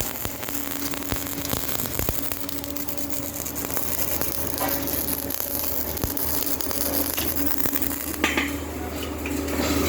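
MIG welding arc crackling and sputtering steadily, with a steady low hum underneath.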